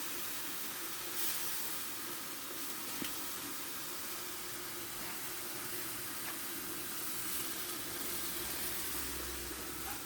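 Egg noodles and vegetables sizzling in a frying pan, a steady hiss, with a few light clicks along the way.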